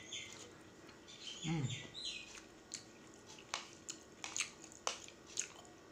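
Mouth-noises of someone chewing a spoonful of fried noodles and sosin greens: a short hummed 'mmm' about one and a half seconds in, then a string of sharp, wet smacking clicks from the lips and tongue.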